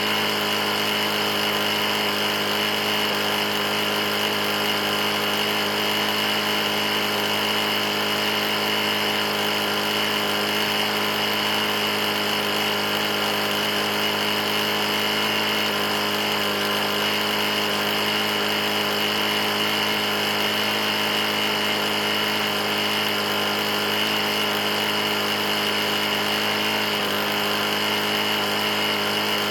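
Briggs & Stratton 450E-series single-cylinder push-mower engine running steadily at a constant speed. The engine has a bad internal knock after being run with very little oil.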